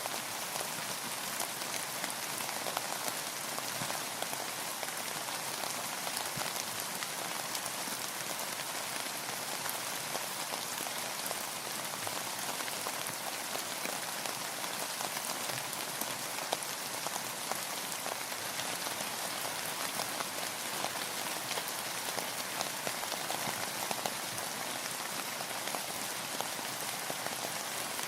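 Steady rain falling, an even hiss of many drops hitting a surface, with fine individual drop ticks scattered through it.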